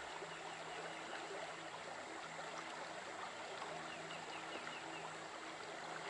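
Faint steady water ambience like a running stream, with a soft low hum that comes and goes. A short run of quick falling chirps sounds about halfway through.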